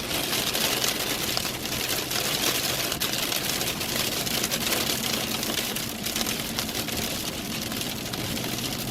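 Heavy rain pelting a moving vehicle, a dense steady patter over the low hum of the engine and road.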